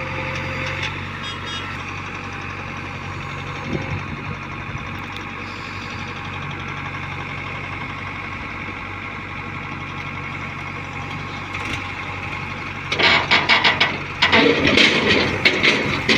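Diesel engine of heavy machinery running steadily at low revs, with louder, irregular noise starting about three seconds before the end.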